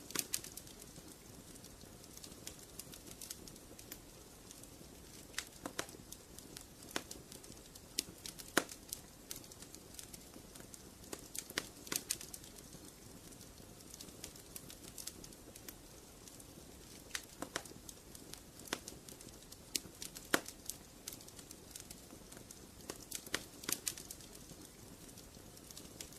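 Wood fire crackling in a fireplace: a soft steady hiss under irregular sharp pops and snaps, a few of them louder than the rest.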